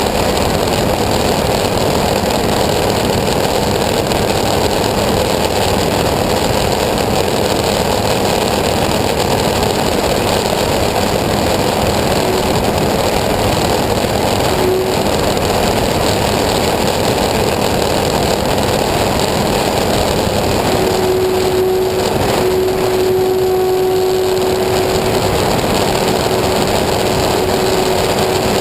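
An engine running steadily and loudly, with no change in speed; a steady hum joins in about three-quarters of the way through.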